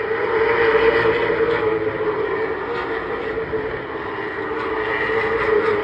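Late model stock cars' V8 engines racing around the track. The sound swells as the cars come past, about a second in and again near the end.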